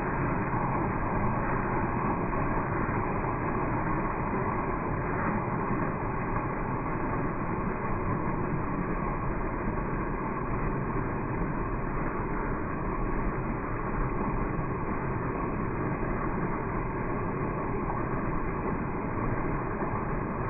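Waterfall's rushing water slowed down in slow-motion playback, heard as a steady, muffled rush with no high end.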